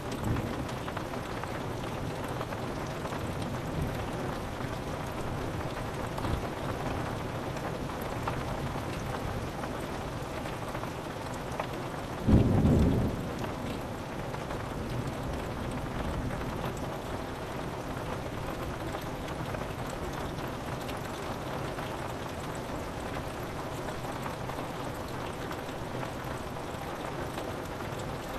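Steady rain pattering on window glass, with one short, loud, low clap of thunder about twelve seconds in.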